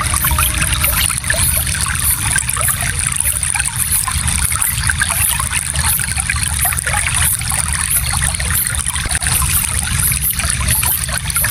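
Shallow stream flowing steadily, water trickling and babbling over rocks.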